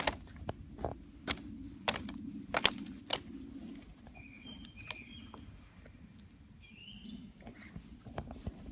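A bird giving a few short, high chirps about halfway through and again near the end. Before the chirps, in the first three seconds, come a series of sharp clicks.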